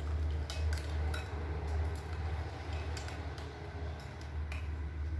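A spoon stirring a thick chocolate and instant-coffee mixture, clinking irregularly against the side of its container, over a steady low hum.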